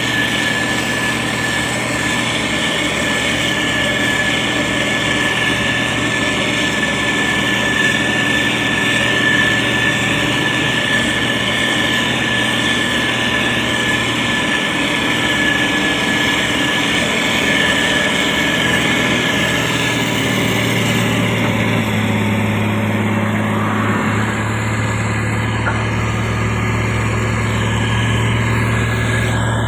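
Diesel engine of a SANY STG190C-8S motor grader running steadily, with a high whine over it. About two-thirds of the way through, the whine stops and a deeper low hum comes up.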